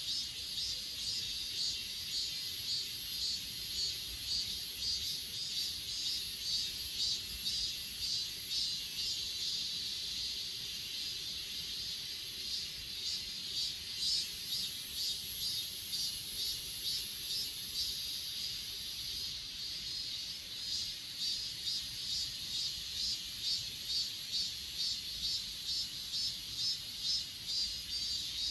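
Grass insects such as crickets singing in a chorus of high-pitched chirps that pulse evenly, about two to three a second. Midway through, a steadier high buzz from another insect joins for several seconds, then drops out.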